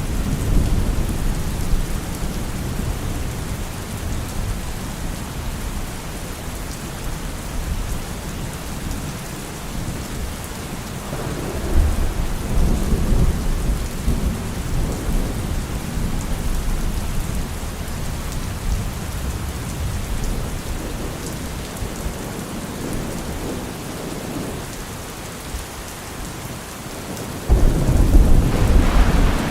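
Steady rain falling with thunder rumbling low under it: a roll about a third of the way in, and a louder one that breaks in suddenly near the end.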